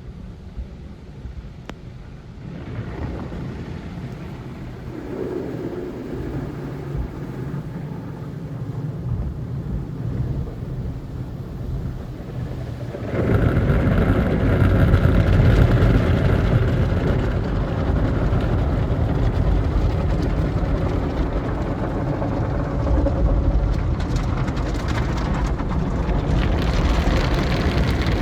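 Tunnel car wash heard from inside the car: a steady rush of water spray and wash equipment on the body. It swells after a couple of seconds, then jumps much louder about 13 seconds in and stays loud, turning brighter and hissier near the end.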